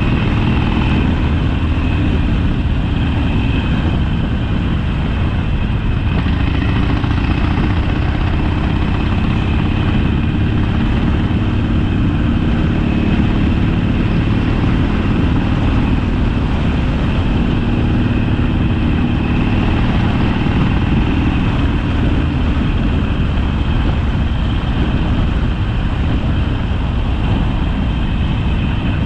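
Harley-Davidson Sportster's air-cooled V-twin engine running steadily on the road, its pitch shifting slightly now and then.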